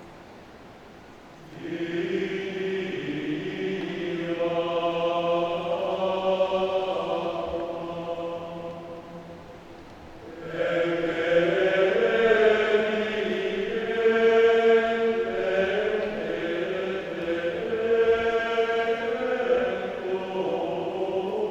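Adult men's choir singing long, sustained chords in two phrases, with a short breath pause a little before halfway.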